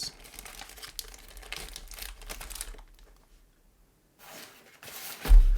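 Plastic packaging crinkling and rustling as it is handled, broken by a second-long pause, then a single heavy thump near the end.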